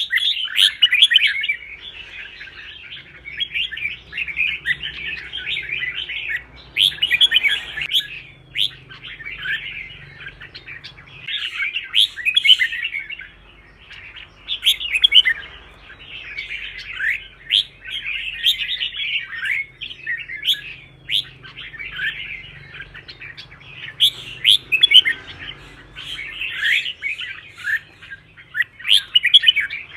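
Red-whiskered bulbuls singing fired-up competition song: a dense run of quick, sliding chirped phrases, coming in bursts every second or two.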